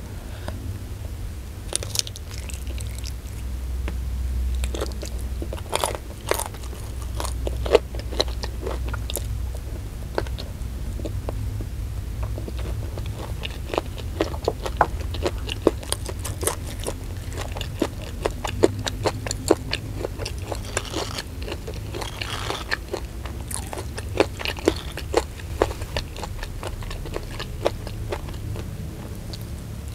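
Close-miked biting and chewing of fried chicken dipped in sambal, with many short sharp crunchy clicks and mouth sounds, over a low steady hum.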